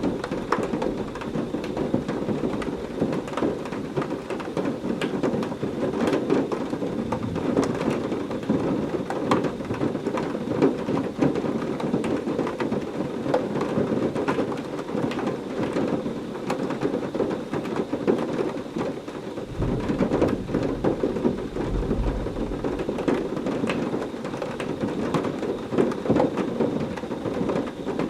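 Heavy rain falling steadily, a dense patter of drops over a full wash of noise. About twenty seconds in, a low rumble of distant thunder swells for a few seconds under the rain.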